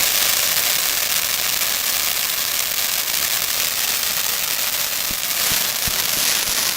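A consumer firework giving off a dense, steady crackling hiss for several seconds, with a couple of soft thumps near the end.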